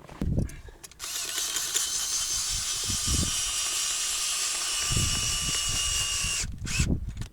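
Cordless drill with a screw-driving attachment running steadily for about five and a half seconds, driving a tent's ice screw into the ice: a high whine over a gritty hiss that cuts off sharply. Low knocks come just before it starts and after it stops.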